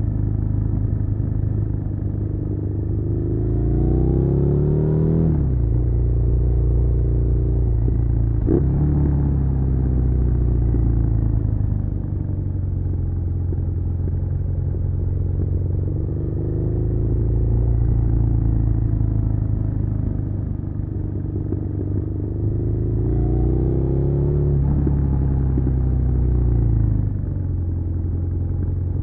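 Suzuki SV650's 645 cc V-twin engine under way, pitch climbing steeply on the throttle twice and dropping back as it shifts up or eases off, with gentler rises and falls between. There is a single sharp click about eight and a half seconds in.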